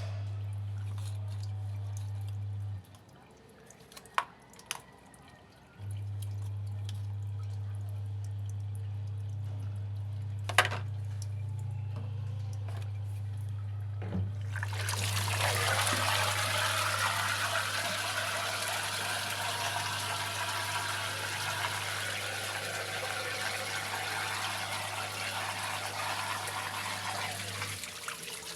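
Hisense washing machine humming steadily, with a low hum that cuts out about three seconds in and comes back about three seconds later, and a few sharp clicks. From about halfway, water rushes and splashes loudly.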